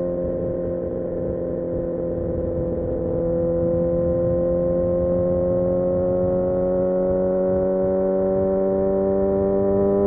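Kawasaki Ninja ZX-6R's inline-four engine running under steady throttle, its note holding level and then slowly rising in pitch over the second half as the bike gently picks up speed.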